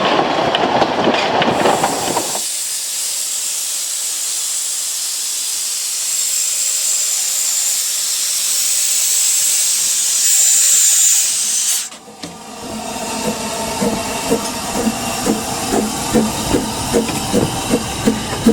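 Narrow-gauge steam locomotive hissing steam in a steady high hiss for about nine seconds, after train running noise at the start. The hiss stops abruptly, and rhythmic train noise follows with about two beats a second.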